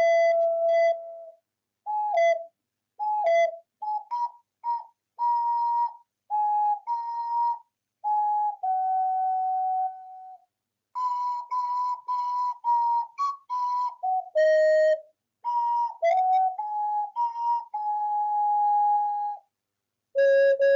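Ocarina playing a simple melody of clear, pure single notes, some held and some short, in phrases with brief silences between them.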